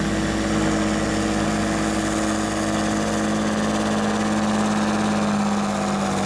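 John Deere 8270R tractor's diesel engine running at a steady speed during a tractor pull, its pitch dropping slightly near the end.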